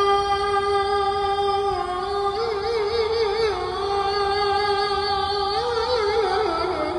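A solo voice chanting unaccompanied, holding long notes that step slowly between pitches, with quick wavering ornaments on some of them.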